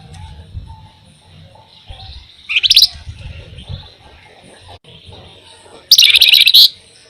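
A flamboyan songbird sings two short, rapid trills of high notes, a brief one about two and a half seconds in and a longer, louder one near the end.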